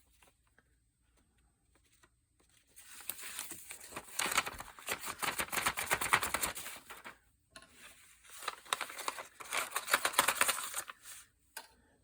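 Book-page paper rustling and crinkling as it is handled, in two stretches of a few seconds each with a short pause between them.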